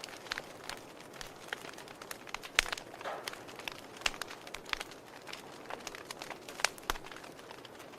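Wood fire in a fireplace crackling: irregular sharp pops and snaps over a soft steady hiss.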